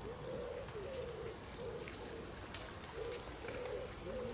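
A bird calling outdoors, a run of short, soft low notes repeated every half second or so.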